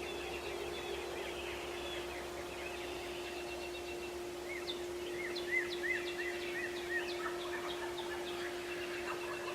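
Wild turkey gobblers gobbling in the woods. About halfway through, a bird sings a quick run of repeated rising-and-falling notes. A steady low hum runs underneath.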